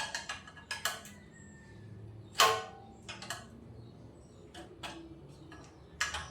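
Metal clinks and clicks of a spanner working loose the bottom-yoke fork clamp bolts on a Kawasaki HD3 motorcycle. It comes as a handful of separate knocks, with one louder clank about two and a half seconds in.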